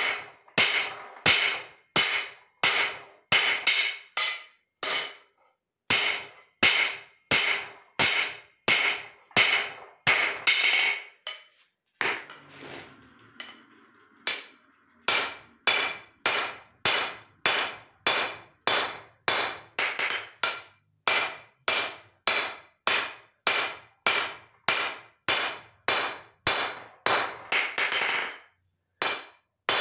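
Hand hammer striking hot leaf-spring steel on an anvil, about two ringing blows a second. The blows stop for about three seconds midway, then resume at the same pace.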